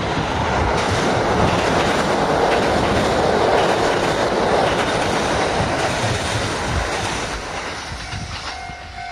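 Kintetsu limited express electric train passing close by, its wheels clattering over the rail joints; the sound builds to a peak in the middle and fades as the train draws away. A steady tone comes in near the end.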